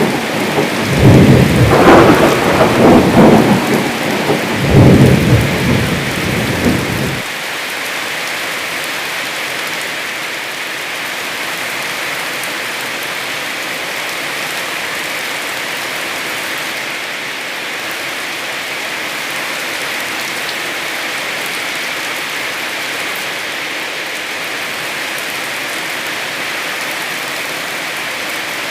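Heavy rain falling steadily, with deep rumbles of thunder in the first several seconds that stop suddenly about seven seconds in.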